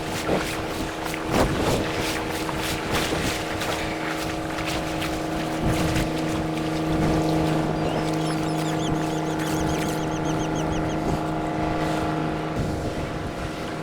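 Motorboat engine running steadily at an even pitch. A quick run of high chirps comes about eight seconds in.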